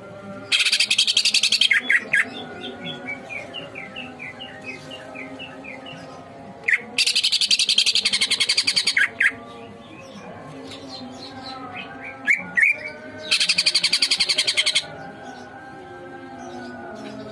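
Green leafbird (cucak ijo) singing: three loud, rapid buzzing trills, each a second or two long, with short whistled chirps between them.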